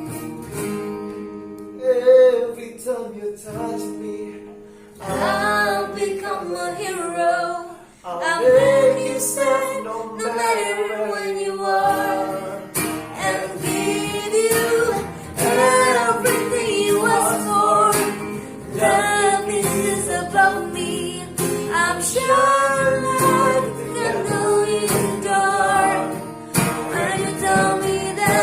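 A woman singing a pop ballad to acoustic guitar accompaniment, her held notes bending over steady strummed chords.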